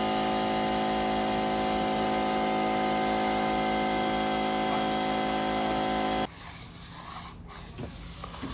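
Power tool motor running steadily with a constant whine over a hiss, cutting off suddenly about six seconds in.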